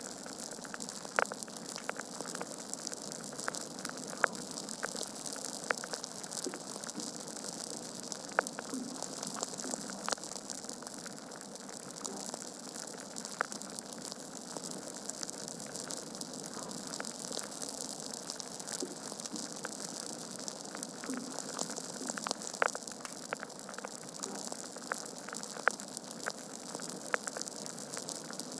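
Log fire in a fireplace crackling: a steady hiss with irregular sharp pops and snaps, a handful of them much louder than the rest.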